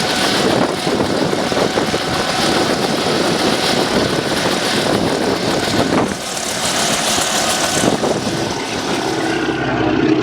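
Propeller-driven airplane with its engine running loudly, a steady drone.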